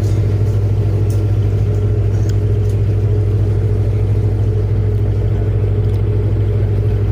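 Ferry's engine running, heard on board: a loud, steady low hum that does not change.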